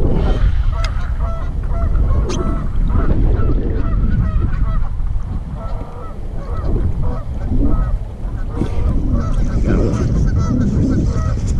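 Geese honking again and again in short, irregular calls, over a heavy rumble of wind on the microphone.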